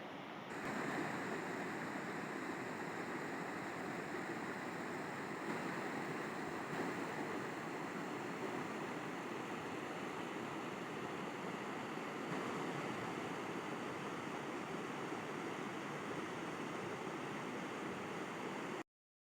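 River water flowing, a steady rushing. It cuts out abruptly for a moment at the very end.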